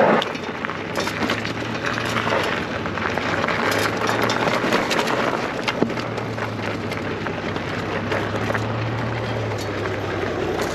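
Electric bike's tyres rolling over loose gravel and rocks: a steady crunching with many small clicks of stones.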